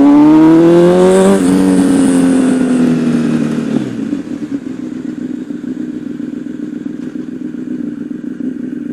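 Honda CBR1000RR Fireblade's inline-four engine pulling with rising revs, then rolling off and winding down to a steady idle about four seconds in. The engine is switched off right at the end.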